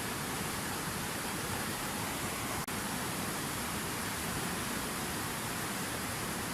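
Fountain waterfall: water falling and splashing in an even, steady rush, broken once by a split-second dropout a little past the middle.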